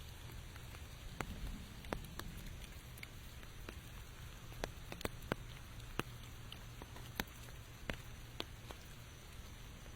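Light rain: separate drops tapping sharply on surfaces at irregular moments, roughly once a second, over a steady low rumble.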